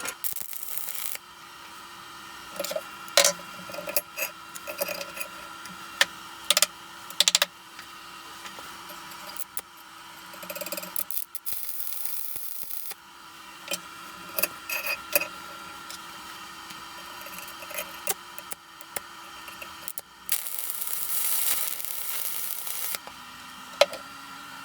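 Mechanical clicks and knocks over a steady hum, with three bursts of high hiss, each one to two and a half seconds long.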